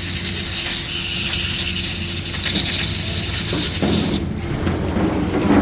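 Compressed-air blow gun hissing steadily as it blows carbon cleaner off a freshly cleaned sensor, then cutting off sharply about four seconds in.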